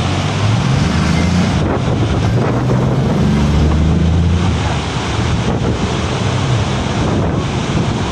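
Loud, steady rush of fast-flowing mountain water, with wind buffeting the microphone and a low, wavering rumble underneath that is strongest in the first half.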